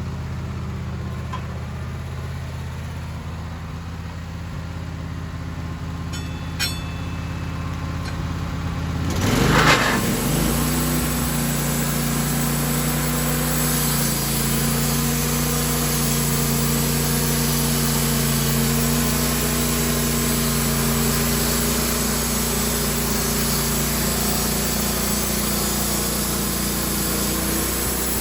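Sawmill engine idling steadily, then brought up to speed about nine seconds in. The saw then runs through the pine log with a steady, louder cutting hiss over the engine.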